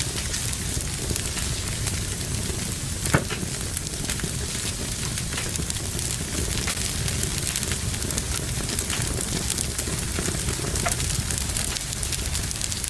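Wood fire burning in a fireplace: a steady rush of flame with many small crackles and one sharper, louder pop about three seconds in.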